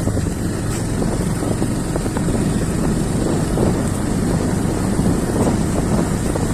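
Motorcycle engine running steadily while riding on a rough off-road track, with wind rumbling on the microphone.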